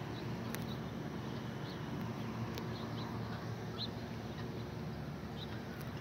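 Steady low outdoor rumble with a handful of short, high bird chirps spread through it, and two or three faint clicks.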